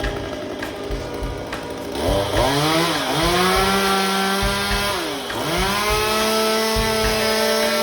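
Two-stroke chainsaw running at high revs from about two seconds in; its pitch dips sharply and climbs back twice. A steady beat of background music runs underneath.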